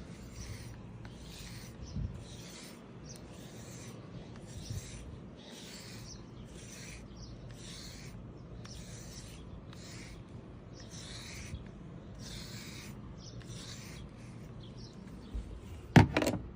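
A brush raking through a dog's coat in steady, regular rasping strokes, about one stroke a second. A loud knock near the end.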